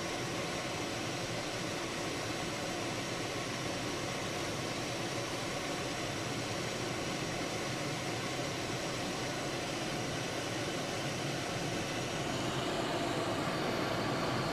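Steady driving noise inside a moving car's cabin: engine, tyres on the snowy road and wind blending into an even hiss, getting slightly louder near the end.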